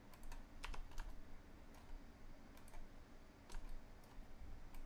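Faint, irregular clicks from a computer mouse and keyboard, about ten in all, some in quick pairs, with short gaps between them.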